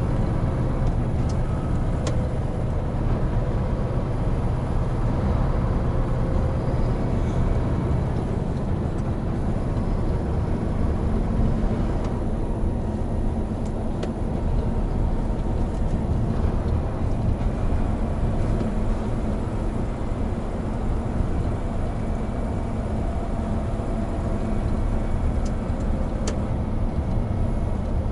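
Hino Profia heavy truck's diesel engine and tyres running steadily at a cruise: a low, even drone with road noise.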